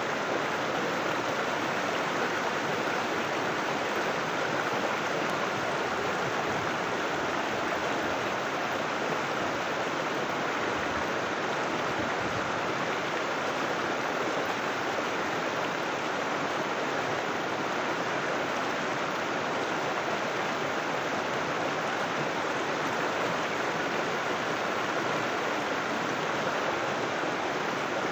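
River water flowing over rocks: a steady, even rush of moving water.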